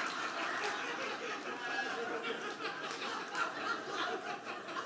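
Audience laughter tailing off into scattered chuckles and murmurs.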